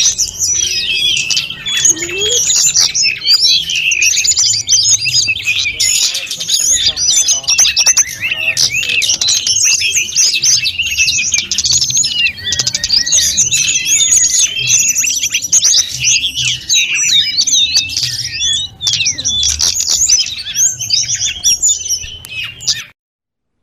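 A sulingan gunung (tledekan gunung) songbird sings a long, unbroken run of quick, high chirps, whistles and trills, packed with varied phrases. It cuts off abruptly near the end.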